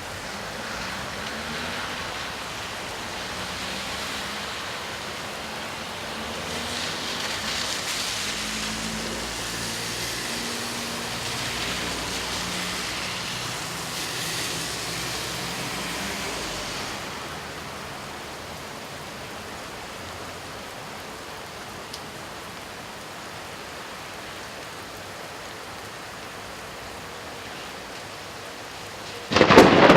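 Steady rain falling, with a car passing on the wet road that swells and fades over the middle of the stretch. Just before the end a loud crack of thunder breaks in suddenly.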